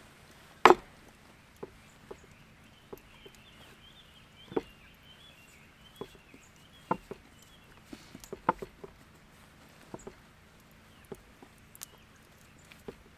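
Irregular sharp clicks and knocks, the loudest under a second in, with a faint high chirping in the middle.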